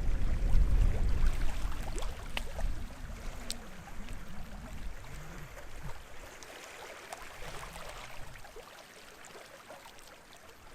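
Small sea waves lapping and trickling at the shoreline, with a few small splashes and clicks. Low wind buffeting on the microphone in the first few seconds dies away, leaving the water fainter toward the end.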